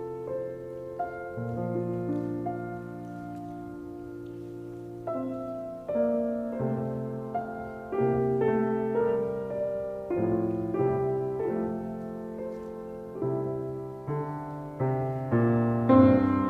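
Background piano music: slow, gentle chords and melody, growing fuller and louder about five seconds in.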